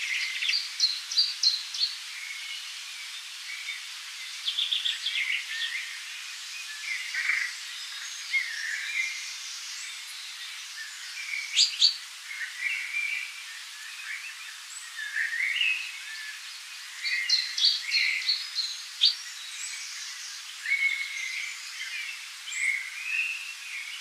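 Several small songbirds singing and chirping, with short trills and repeated high notes in clusters, over a faint steady hiss.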